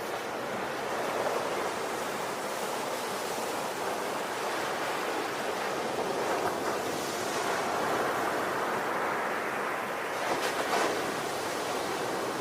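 Ocean surf: waves washing in and out in a steady rushing hiss that swells and eases, with a louder, sharper wash of breaking water about ten seconds in.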